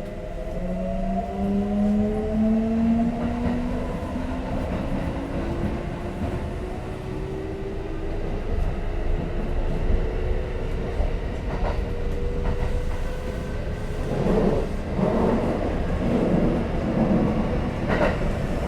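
Kintetsu 5800 series electric train accelerating: the traction motors whine in several tones that rise steadily in pitch. Toward the end the wheels clatter in short groups over rail joints.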